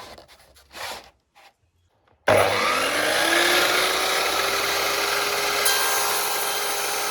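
Sliding miter saw: a few quiet handling clicks, then about two seconds in the motor starts with a rising whine that settles to a steady pitch, and the blade cuts through a laminate board with a loud, dense sawing noise.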